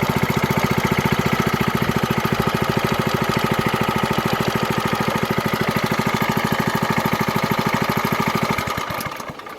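Small gasoline engine of a prospecting water pump running steadily with an even, rapid beat, then dying away about nine seconds in as it is shut off.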